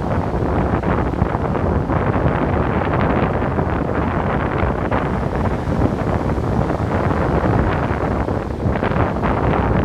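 Surf washing on a beach, a deep, steady rush of noise with only small swells and no distinct single crashes.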